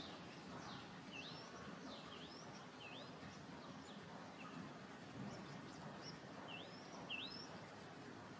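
A bird calling faintly: a string of short, sharp chirps that dip and then rise, with a pause midway, over a steady outdoor hiss.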